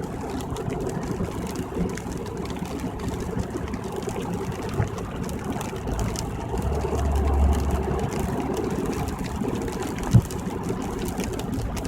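Road noise heard inside a car cruising on a rain-wet freeway: steady tyre hiss and low rumble. A deeper rumble swells for a few seconds about halfway through, and there is a single sharp knock about ten seconds in.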